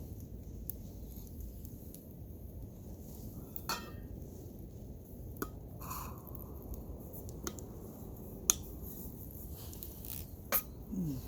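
Camp cookware being handled: scattered light metallic clinks and knocks over a low steady background, the sharpest about eight and a half seconds in, with a short falling squeak near the end.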